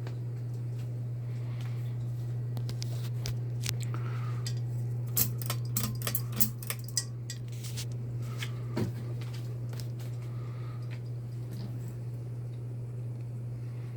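Bahama 42-inch ceiling fan's motor humming steadily, with a quick run of sharp clicks and ticks around the middle and one more click a little later.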